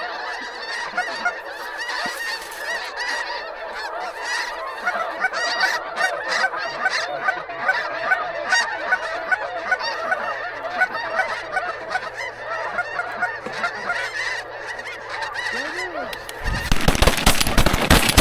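A flock of geese calling continuously, many overlapping honks, as they come in. About sixteen seconds in, a volley of shotgun blasts breaks out, many shots in quick succession and overlapping.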